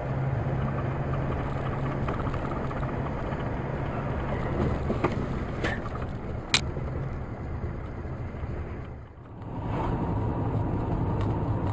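Steady engine and road noise of a car driving, with a low hum underneath. A few sharp clicks come around the middle, and the sound drops briefly about nine seconds in.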